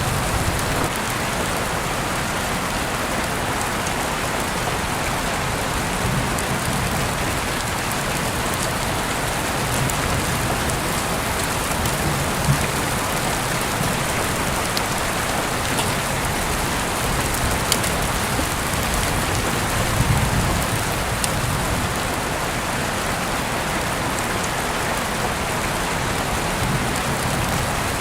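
Heavy rain falling steadily, heard through an open window, with a few sharper drop hits standing out now and then.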